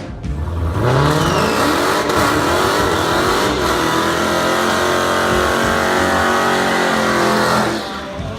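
Muscle car engine revving up hard and held at high revs for several seconds with the tyres spinning in a burnout, then dropping off near the end.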